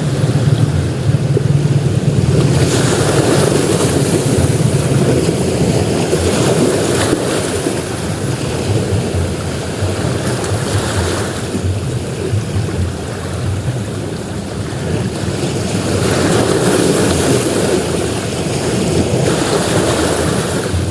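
Ocean surf on a sandy shore: waves break and wash up one after another, several swells of a few seconds each over a steady low rumble.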